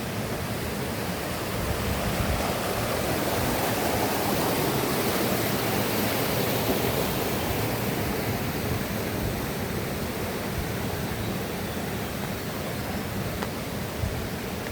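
River water rushing steadily over rocks, growing louder about two seconds in and easing off again after about eight seconds.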